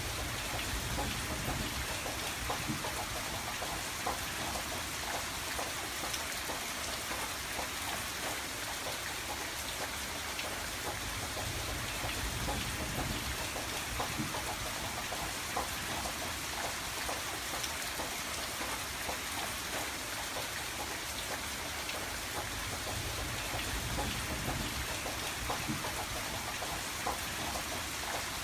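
Steady rain falling on a window, a continuous hiss with many small scattered drop ticks and a soft low rumble that swells and fades every few seconds.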